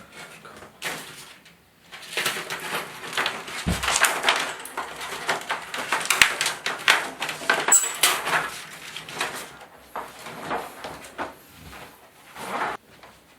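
Irregular clicking, knocking and scraping of hard metal and plastic parts being handled, as the old LED backlight bars of an LCD TV are detached from the back chassis. A sharp knock comes just under four seconds in.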